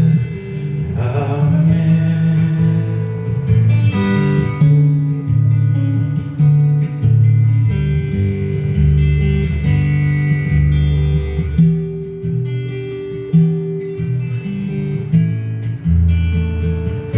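Acoustic guitar playing a slow strummed and picked accompaniment, with a sung phrase near the start.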